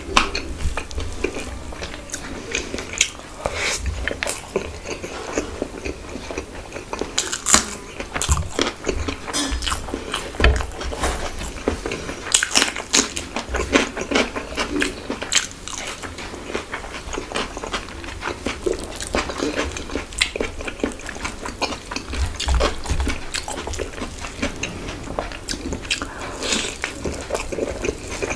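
Close-miked eating sounds of a man eating bhuna khichuri with his hand: chewing and wet mouth smacks in a constant, irregular run of small clicks.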